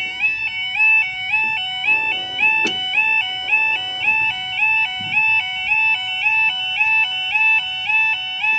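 Level crossing warning alarm sounding: a loud two-tone warble that steps back and forth between a higher and a lower pitch about one and a half times a second, warning road users that the crossing is closing for a train. A few faint knocks sound beneath it.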